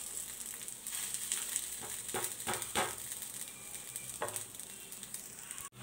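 Dal roti sizzling as it fries on a nonstick tawa, a steady hiss with a few short scrapes and taps of a metal slotted spatula pressing it down, three close together in the middle and one more after.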